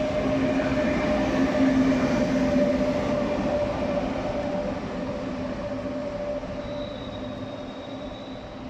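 A train running through the station, its wheels squealing in steady tones over the rumble of the cars. It is loudest about two seconds in and then fades away.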